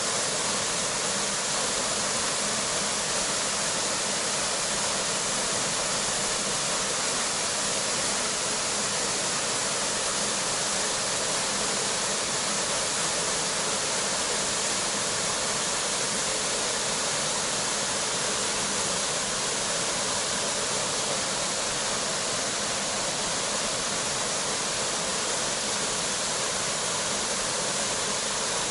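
Waterfall pouring into its plunge pool: a steady, unbroken rush of water.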